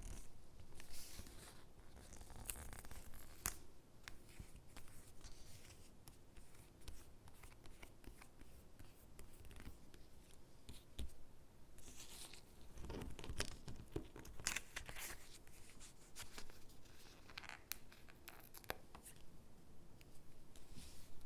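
Stickers being peeled from their backing and pressed onto paper gingerbread cutouts: irregular soft peeling, rustling and light taps of paper handling.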